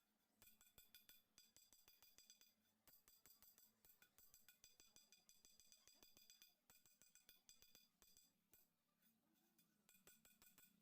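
Near silence with faint, rapid metallic clicking and jingling throughout.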